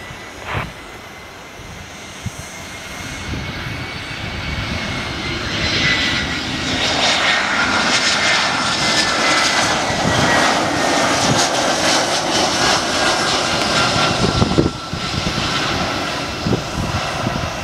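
Airbus A320-214 jet airliner's CFM56 engines on a landing approach: the engine noise builds over several seconds and then holds loud, with a high whine that slowly falls in pitch as the plane passes.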